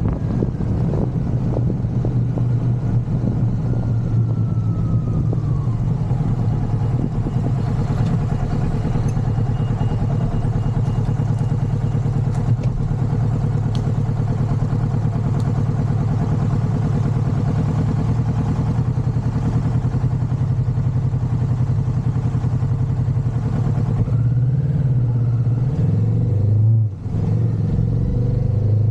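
Motorcycle engine running steadily while riding. About 24 s in the revs rise, and near the end the sound briefly drops away and picks up again, as at a gear change.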